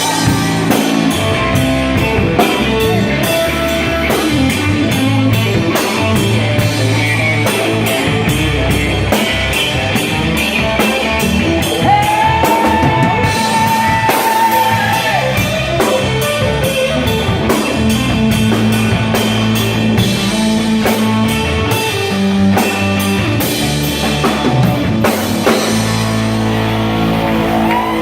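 Rock band playing an instrumental passage: guitar over a steady drum kit and bass, with one long held lead note about halfway through.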